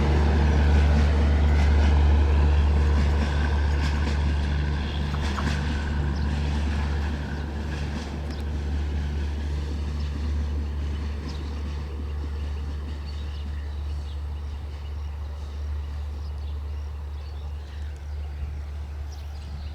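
Diesel-hauled passenger train running by, its engine a steady low hum, with a few sharp clacks a few seconds in, fading away as it moves off.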